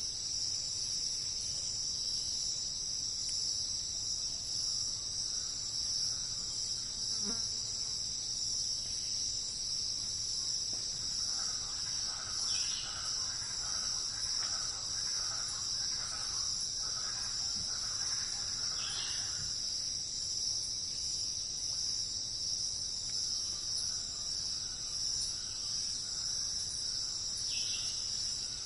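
Steady, unbroken high-pitched chorus of crickets or similar insects, with a few faint, short bird chirps over it.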